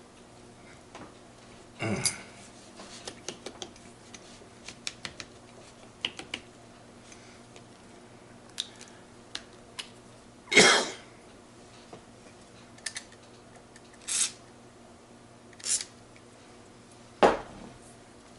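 Steel gearbox parts clinking and knocking as a Ford 2000E gearbox's 1-2 synchro hub and ring are worked by hand on the mainshaft, the ring jamming on the hub and refusing to go down. Scattered light clicks with a handful of louder knocks, the loudest about ten seconds in.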